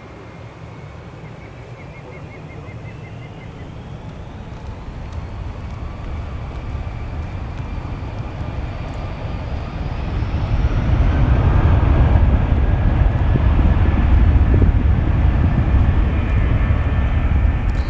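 Airbus A320's IAE V2500 turbofan engines spooling up, their whine rising in pitch. The jet noise then swells to a heavy low roar from about halfway through, as the airliner accelerates on its takeoff roll.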